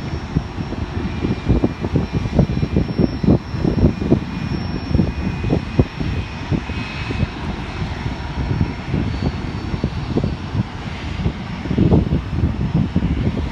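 Jet airliner engines with a faint steady high whine, nearly buried under heavy wind buffeting on the microphone.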